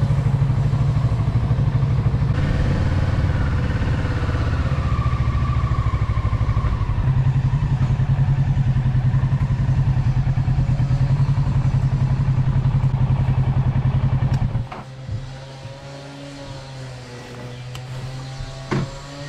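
Motorcycle engine idling close to the microphone with a steady low beat. About fifteen seconds in, the sound drops suddenly to a much quieter, steady engine hum.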